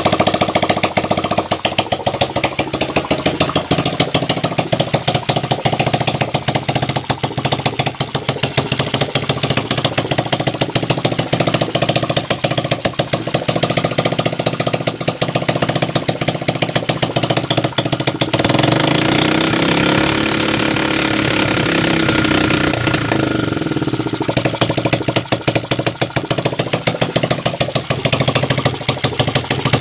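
Kawasaki Aura Classic 110 motorcycle engine idling with an even, rapid putter. About two-thirds of the way through it is revved up and let back down to idle once.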